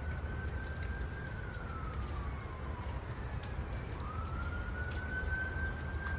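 Rescued coyote howling: two long, slow howls, each rising, holding high, then sliding down, with a short breath gap before the second begins about four seconds in.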